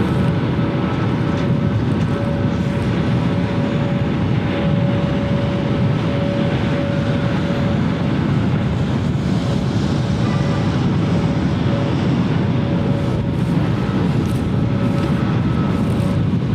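Jet airliner engines running on the ground: a steady rumble with a thin, steady whine that fades in and out.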